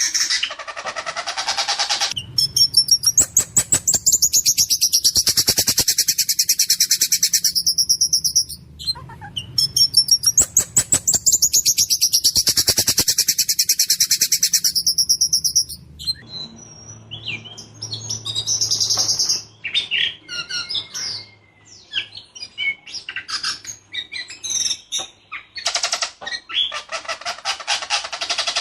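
Ciung batu songbird singing in full voice. It gives long, fast, rattling runs of harsh notes, two of them about six seconds each. Shorter varied calls follow, then another fast run near the end.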